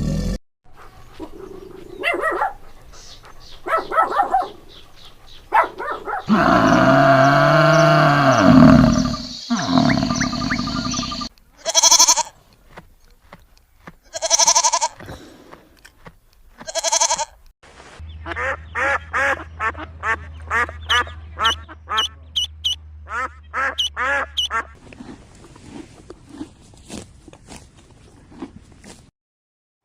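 A series of different animal calls in short clips cut one after another: a long loud call over a noisy background, then three separate calls a couple of seconds apart, then a run of quick repeated calls.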